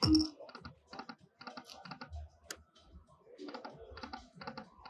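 Lightning Link video slot machine during a spin: a sharp electronic tone as the spin starts, then an irregular run of short clicking ticks as the reels spin and stop.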